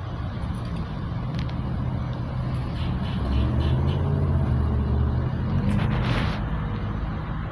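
Low, steady engine rumble that grows somewhat louder midway, with a brief whoosh about six seconds in.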